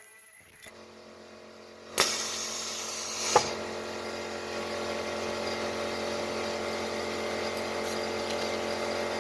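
Ultrasonic welding machine for velcro switched on and humming steadily, with a sharp click about two seconds in and a second short, loud burst about a second and a half later, typical of the press and weld cycle.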